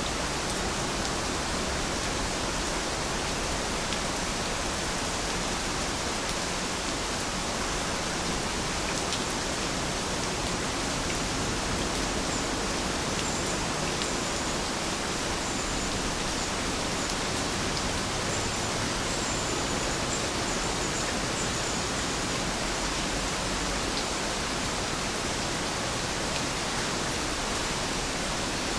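Heavy rain falling steadily as an even hiss, with scattered sharper drop ticks. A few faint high chirps come through around the middle.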